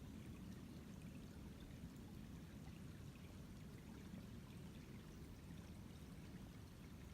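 Faint, steady low rushing noise with no distinct events.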